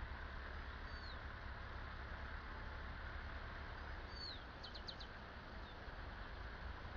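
A small bird chirping: a falling chirp about a second in, another about four seconds in, then a quick run of four short notes, over a steady low rumble.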